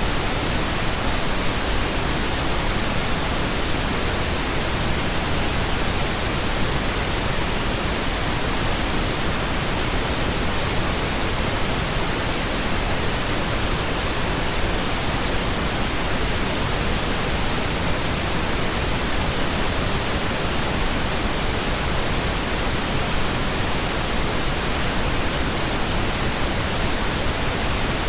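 Steady pink noise: an even, unchanging hiss across low and high pitches, with no tones or events.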